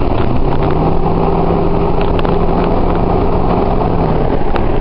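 2004 Ford F-150's 4.6 V8 exhaust through a Thrush turbo muffler, heard inside the cab through the open back window while cruising steadily, with a steady low drone for most of the time and a few light knocks.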